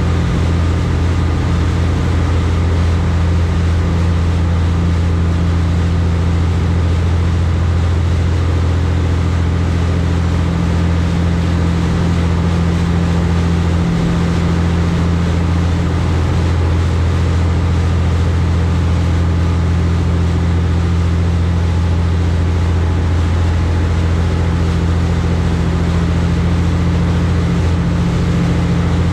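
High-speed passenger boat's engines running with a steady low drone over the rush of the hull through the water.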